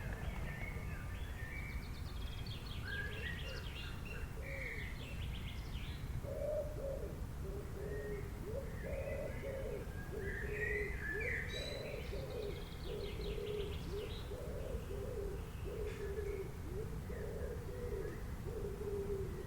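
Forest birds calling: scattered high chirps and trills, and from about six seconds in a low cooing call repeated again and again, over a steady low rumble.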